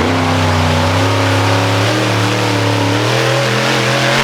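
Monster truck engine held at high revs, loud, its pitch climbing slowly and steadily.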